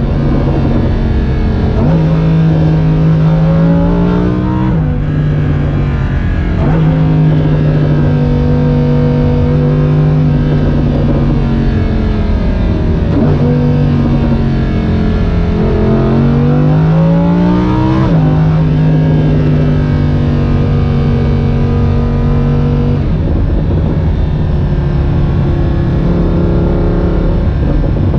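Lamborghini Huracán LP610-4's 5.2-litre V10 running while driving. The revs climb a few times and drop sharply at gear changes, with stretches of steady running in between.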